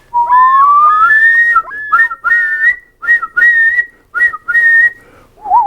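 A run of clear whistled notes in short repeated phrases, opening with one long rising glide. Near the end a lower, wavering trill begins.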